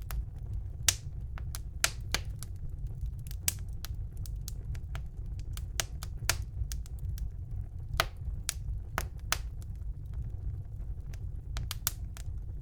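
Wood fire in a fireplace crackling and popping: irregular sharp snaps, a few much louder, over a steady low rumble of the burning.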